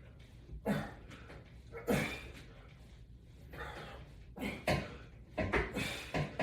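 A man's short, sharp breaths while exercising: two single puffs in the first two seconds, then a quicker run of them from past the midpoint.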